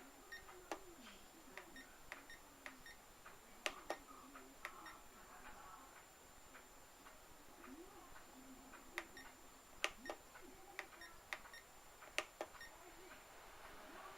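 Faint, irregular sharp clicks and ticks, a few louder ones scattered through, over quiet room tone.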